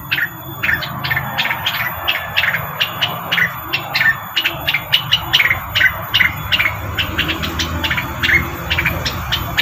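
Rengganis bird call played as a lure recording: a rapid, unbroken series of short, sharp chirps, about four or five a second, over a steady low hum.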